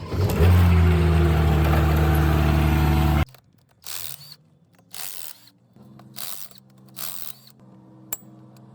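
A loud machine hum runs steadily, typical of an engine or motor, and cuts off suddenly about three seconds in. After it come several short hissing bursts over a fainter low hum, with a few sharp clicks near the end.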